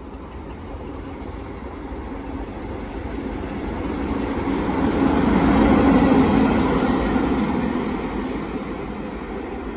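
A train passing close by: its rumble builds, is loudest about six seconds in, then fades as it goes away.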